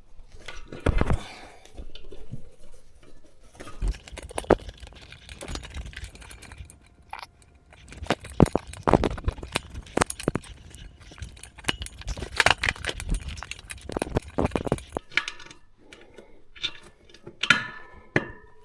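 Irregular light metallic clinks and knocks of hands working a tube-type tyre on a motorcycle wheel rim, feeding the inner tube's valve stem through the rim's valve hole.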